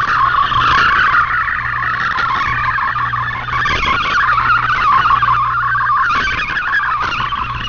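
Shortwave digital data-mode signal (MFSK-type text transmission) coming through a radio receiver: a dense warble of rapidly shifting tones held between about 1 and 2 kHz, with static hiss rising and fading over it and a low steady hum underneath.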